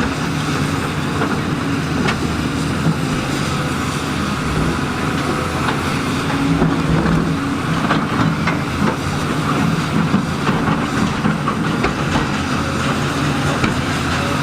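Diesel engine of heavy construction machinery running steadily, with scattered clanks and knocks of metal and stone throughout.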